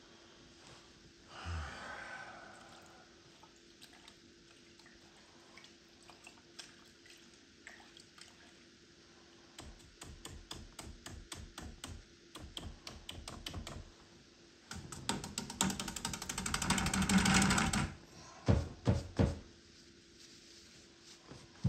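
Paintbrush tapping on canvas, a run of quick sharp taps, then a louder dense burst of rapid tapping and rubbing lasting about three seconds, followed by a few single knocks.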